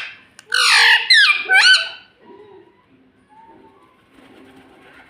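Indian ring-necked parakeet giving a quick run of about three loud, harsh screeching calls with sweeping pitch in the first two seconds, then falling quiet.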